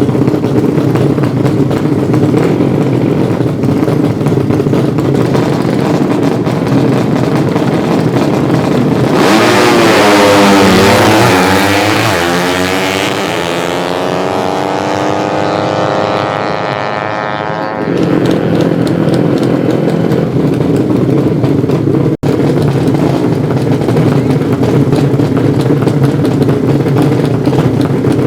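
Racing motorcycle engines running with a steady drone. From about nine seconds in, a 200cc underbone drag-racing motorcycle is louder and revs hard, its pitch climbing for several seconds as it accelerates, before the sound cuts off abruptly.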